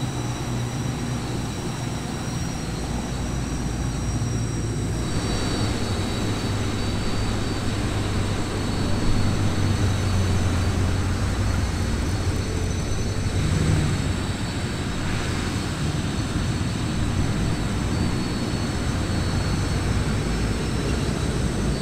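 Car engines running as vehicles drive past at low speed: a steady low rumble that swells about nine seconds in and again near thirteen seconds.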